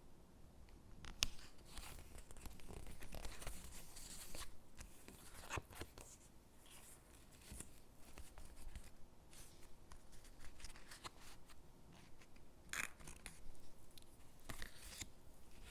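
Stickers peeled off their backing sheet and pressed onto paper gingerbread cutouts: soft scattered peeling and paper rustles with small crisp taps, a sharper click about a second in and another near the end.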